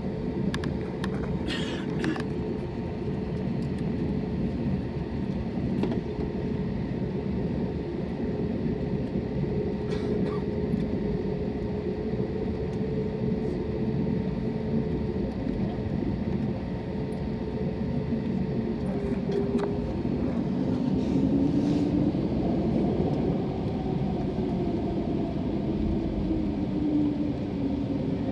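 Steady rumble and hum inside the cabin of an Airbus A320neo taxiing after landing, its CFM LEAP-1A engines at idle. About twenty seconds in, a second tone slowly rises in pitch. A few light clicks sound near the start.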